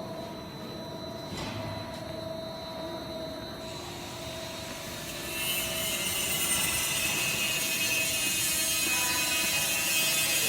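Industrial microwave powder sterilization machine running, a steady mechanical hum with a few constant tones; about five seconds in a louder, high hissing noise joins and holds.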